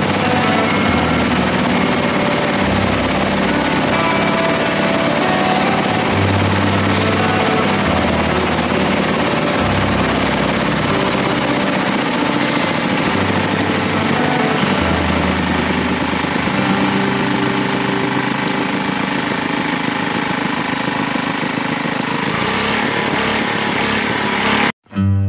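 Engine of a well-drilling rig running steadily under load; cuts off abruptly near the end.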